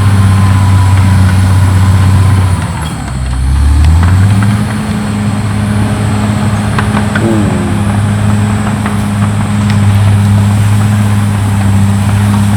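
CAT D6R XL bulldozer's diesel engine running steadily under load. About three seconds in its note drops, then climbs back to its working pitch a second or so later.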